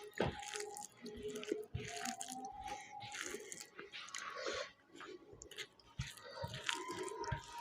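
A person biting and chewing food close to the microphone: irregular wet and crisp mouth sounds, with no speech.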